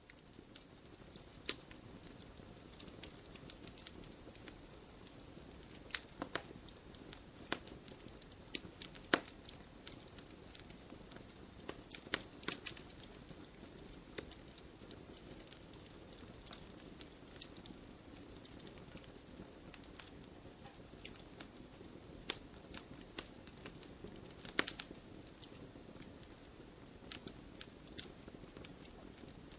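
Campfire crackling: sharp, irregular pops and snaps over a steady low hiss of burning, with a few louder pops scattered through.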